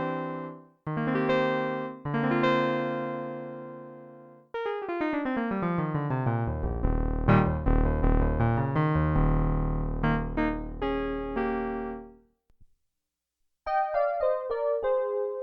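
Roland JX-8P analog polyphonic synthesizer played on a factory patch: held chords, then a fast run of notes descending into deep bass notes. A brief pause comes about twelve seconds in, and fresh notes follow.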